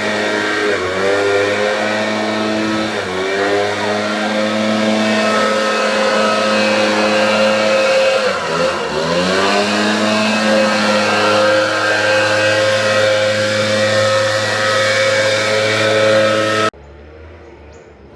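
A car engine running under load, its pitch climbing in the first few seconds, dropping sharply about eight seconds in and climbing again, then cutting off suddenly near the end.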